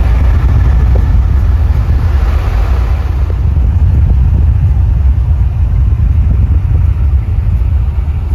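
A car driving along a highway, heard from inside: a loud, steady low rumble of road and wind noise.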